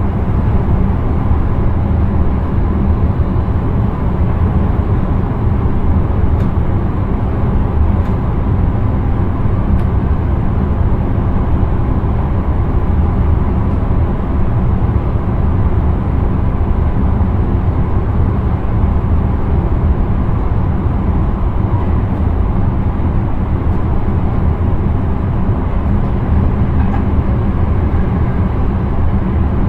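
Intercity train running along the line, heard inside the driver's cab: a steady, even rumble of wheels on track and running noise that does not change.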